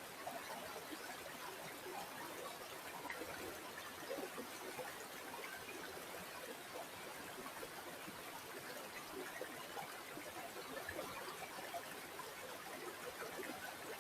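Flowing river water running steadily, with many small trickling gurgles.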